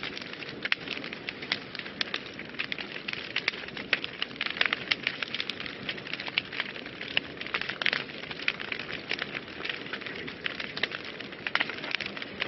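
Wood fire burning in a fireplace, crackling and popping with many quick irregular snaps over a steady low hiss of flames.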